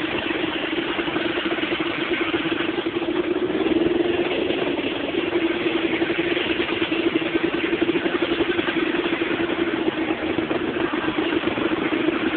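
Motorcycle engine running steadily while riding: an even engine hum under a constant rushing noise, with no change in speed.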